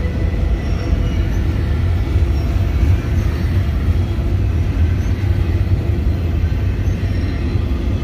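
Union Pacific double-stack intermodal train's loaded container well cars rolling past: a steady, loud, low rumble of wheels on rail.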